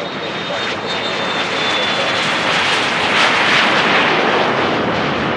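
Business jet's turbofan engines passing close: jet noise swelling to a peak about three seconds in and then starting to fade, with a high whine that drops slightly in pitch as the jet goes by.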